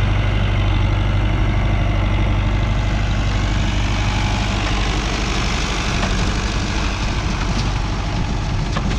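Tractor engine running steadily close by, with a steady low rumble and a rougher mechanical noise over it.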